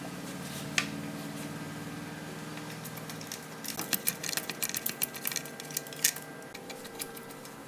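A low steady hum that stops about three seconds in, then a quick run of light clicks and clinks of small metal parts being handled.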